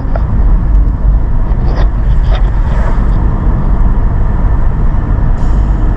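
Road noise inside a moving car: a steady, loud low rumble of tyres and engine.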